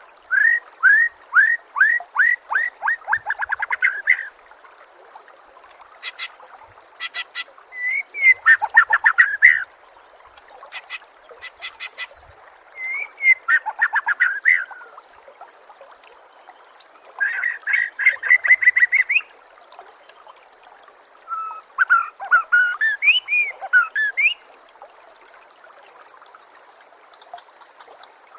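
White-rumped shama (murai batu) singing: a string of separate phrases with short pauses between them, mixing rapid series of downslurred whistles, fast trills and dry clicking rattles.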